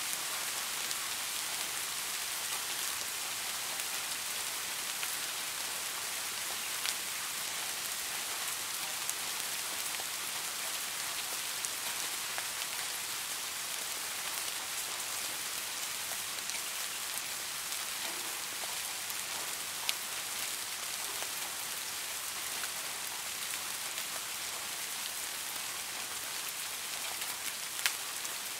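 Steady rain falling, an even hiss with a few sharper single drop clicks now and then.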